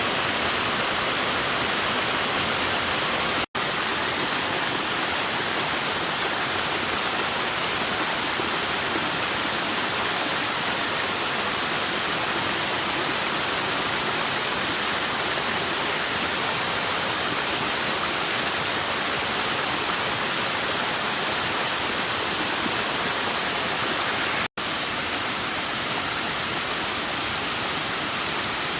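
Steady rushing of water, even and unbroken, dropping out for an instant twice.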